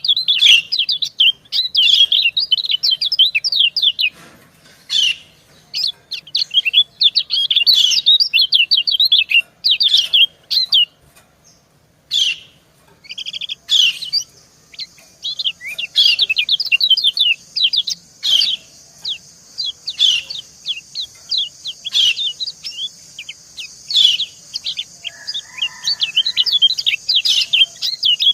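Kecial kuning (yellow white-eye) birds giving rapid, dense high chirping 'ciak-ciak' calls, females answering males, with a brief pause about halfway. A steady high hiss comes in under the calls about half a second later and stays on.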